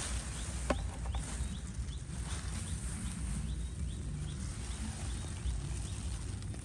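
Faint short chirps from a small animal, repeated about twice a second, over a steady low rumble, with one sharp click about a second in.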